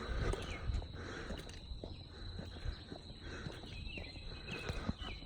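Outdoor walking ambience: footsteps about once a second, scattered short bird chirps, and a steady high-pitched insect-like whine, over a low rumble of wind.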